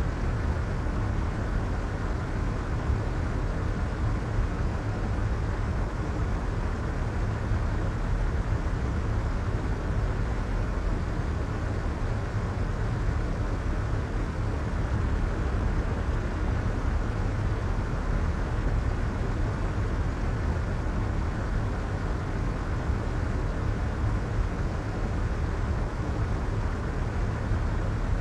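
Soft white noise: a steady, unchanging hiss weighted toward the low end, with the highs rolled off, so it sounds dull and rumbling rather than bright.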